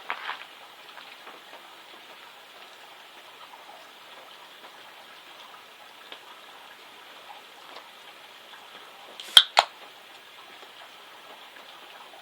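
Light steady rain pattering and dripping, with faint scattered ticks of drops. Two sharp clicks come in quick succession about nine and a half seconds in.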